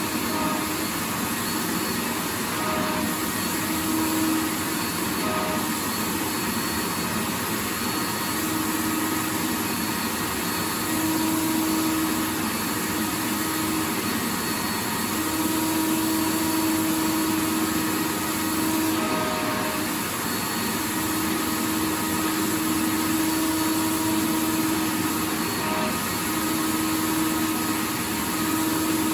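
Vacuum cleaner running steadily with a continuous rushing whoosh of air, and a low hum in it that swells and fades every few seconds.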